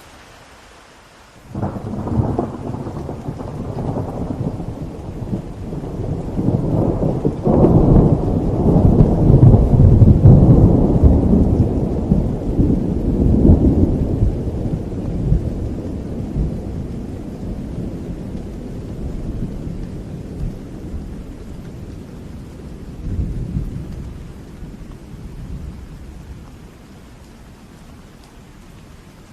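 A long roll of thunder over steady rain: it breaks suddenly about a second and a half in, swells and rumbles for several seconds, then slowly dies away, leaving the rain hissing.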